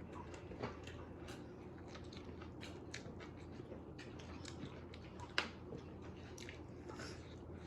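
People chewing food at close range, with scattered small clicks and taps over a low steady hum. A sharper click comes about five seconds in.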